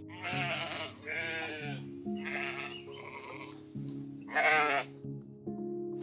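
A sheep bleating several times in wavering calls, the loudest near the end, over steady background music.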